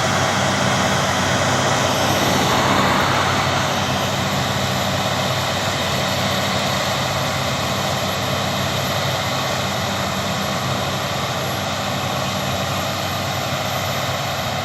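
Claas Lexion combine harvester running steadily while harvesting, a continuous engine drone with the rush of the threshing machinery. It swells slightly about three seconds in, then eases off a little.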